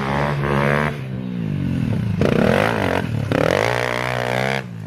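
Pit bike engine revving hard and easing off as it is ridden around a dirt track, its pitch climbing and falling with the throttle. It backs off about a second in and drops away suddenly near the end.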